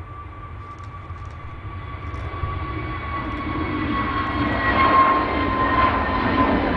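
Jet airliner's engines passing by, a whine with steady tones that drift slightly lower in pitch over a broad rumble, growing louder from about two seconds in.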